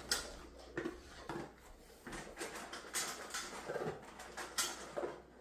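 Dog eating from its food bowl, with irregular chewing crunches and small clinks and knocks against the bowl.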